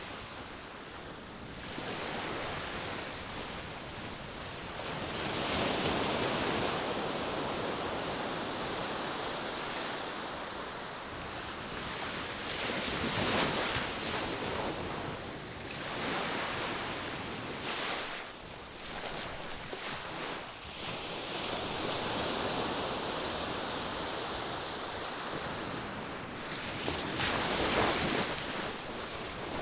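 Ocean surf on a sandy beach: waves breaking and washing up the shore in slow swells. A brief surge stands out about 13 seconds in, and another near the end. Wind on the microphone runs underneath.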